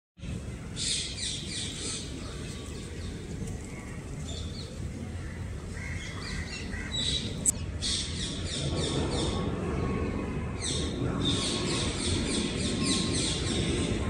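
Small birds chirping in rapid repeated series of short high notes, over a low steady background rumble. A single sharp click about halfway through.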